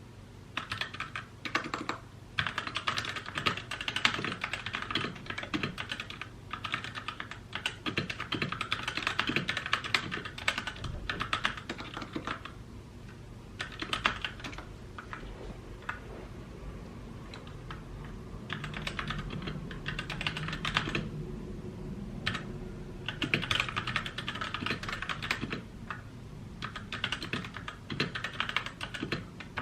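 Typing on a mechanical keyboard: rapid runs of clicky keystrokes in bursts of a few seconds, with short pauses between them.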